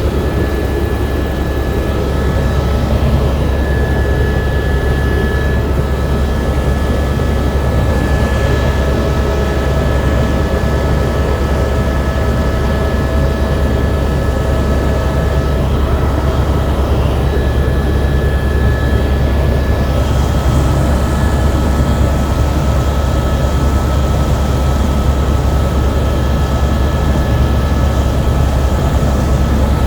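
Helicopter in flight, heard from inside the cabin: a loud, steady low drone from the rotor and engine, with a steady high whine on top.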